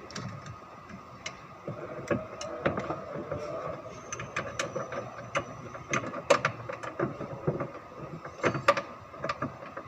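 Metal hand tools clicking and knocking at irregular intervals, with ratchet-like clicks, over a steady background hum.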